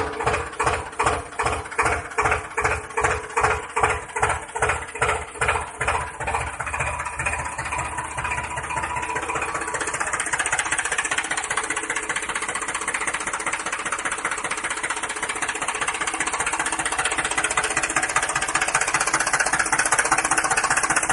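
Small motor chugging, slow at first at about two beats a second, then speeding up until the beats blur into a steady running buzz.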